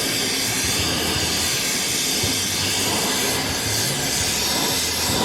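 Steady loud hissing rush with a low, fluttering rumble underneath, running evenly throughout.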